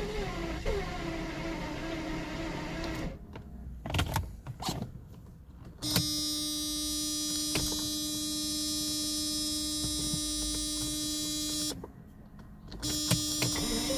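A 1992 Mercedes 600SEL's 6.0-litre V12 being cranked by its starter with a steady whirring hum, stopping twice between attempts with a few clicks, and never firing. This is a crank-no-start, which the owner suspects is a lack of ignition.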